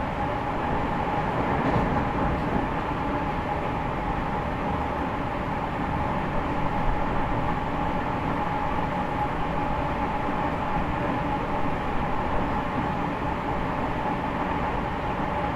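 Running noise heard inside the cabin of an E501 series EMU motor car on the move: a steady rumble of wheels on rail with a steady tone running through it.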